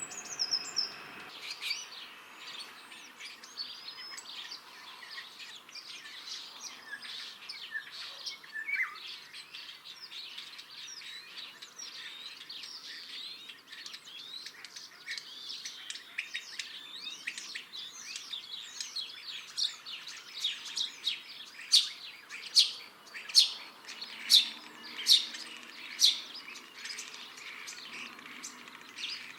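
Common starling singing: a long, varied stream of chatter, whistles and clicks. In the last third comes a run of about seven loud, sharp clicks.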